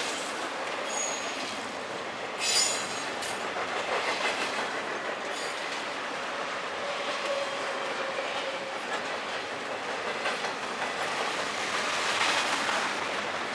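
Double-stack container freight train rolling past: a steady rush and clatter of steel wheels on the rails. A brief, sharp metallic squeal about two and a half seconds in is the loudest moment.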